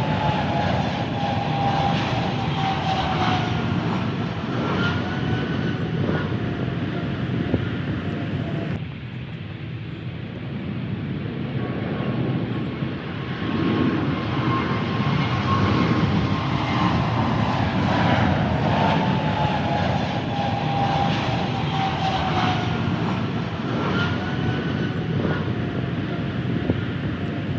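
Jet airliner engines passing on landing approach: a steady rumble with a whine that glides down in pitch. About nine seconds in the sound suddenly drops and turns duller, then the rumble builds again with another falling whine.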